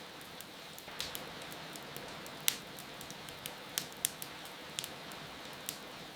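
Wood fire crackling, with irregular sharp pops, the loudest about two and a half seconds in, over a steady hiss of rain.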